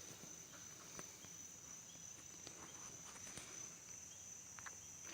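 Near silence: a faint steady high-pitched buzz, with a few faint clicks.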